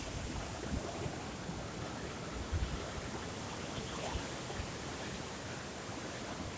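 Steady rushing noise of sea surf and wind at the shore, with a few brief low bumps on the microphone.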